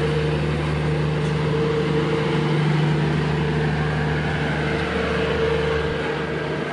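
Diesel passenger train pulling slowly away, a steady engine drone with a constant hum.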